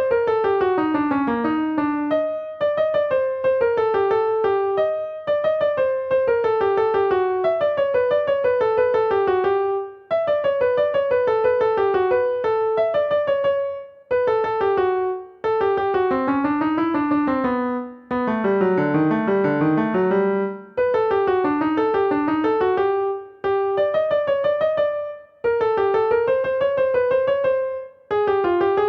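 Instrumental melody played on a piano sound: quick runs of notes that mostly step downward, in phrases of a few seconds separated by brief pauses.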